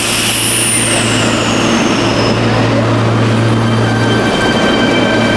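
Electric commuter train at a station platform: a high whine that falls in pitch over the first two seconds or so, then steadier whining tones from about three seconds in, over the dense noise of the train running.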